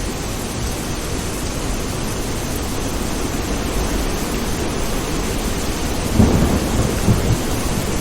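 Steady heavy rain with thunder: a low rumble builds and peaks about six seconds in.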